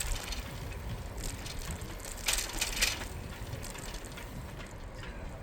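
Riding a bicycle: a steady low rumble of tyres and wind, with a short run of sharp mechanical clicks and rattles a little over two seconds in.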